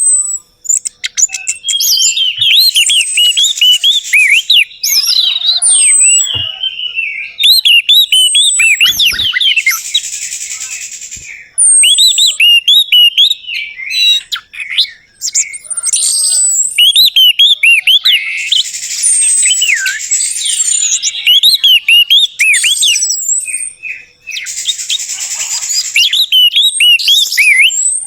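Orange-headed thrush singing a rapid, varied song of high chirps and whistled notes in bursts with short pauses, mixed with stretches of harsh hissing notes. It is a lure recording meant to set a silent caged bird singing.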